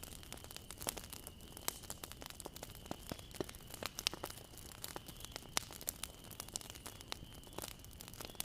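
Bonfire crackling: burning wood giving irregular sharp pops and snaps, several a second, over a faint hiss.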